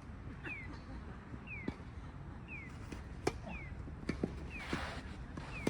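Tennis balls struck and bouncing on an outdoor court: a few sharp, separate knocks. Under them a short falling chirp repeats steadily about once a second.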